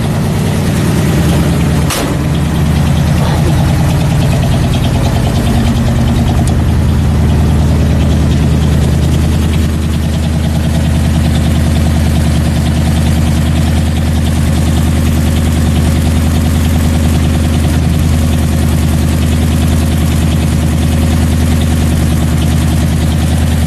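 Old carbureted Ford pickup engine, most likely the 1966 F-100, idling steadily just after a cold start, with a single sharp click about two seconds in. The owner says the carburetor still isn't right, which he blames for popping and crackling that is worse in the cold.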